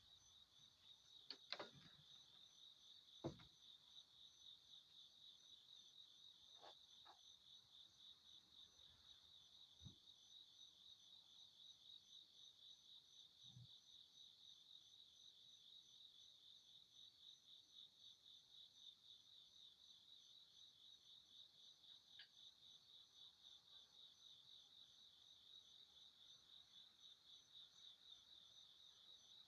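Insects chirping in a faint, steady, high trill of fast, even pulses, with a few soft knocks in the first ten seconds.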